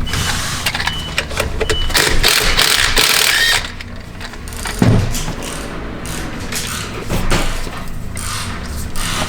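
Hand tools and metal parts being worked while removing a UTV's stock battery: a busy run of clicks, clinks and knocks with bursts of rattling, quieter after the first few seconds and with a single knock around five seconds in.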